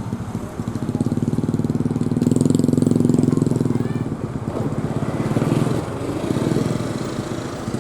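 A small engine running with a fast, even pulse, its level swelling and easing a few times.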